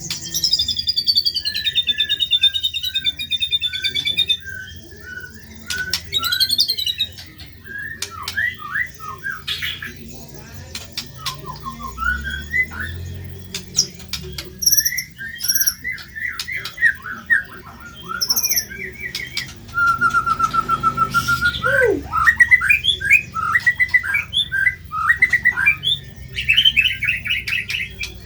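White-rumped shama (murai batu) singing: a long, varied song of quick repeated chirps, trills and whistles, with harsher squawking notes mixed in and one held whistle about two-thirds of the way through.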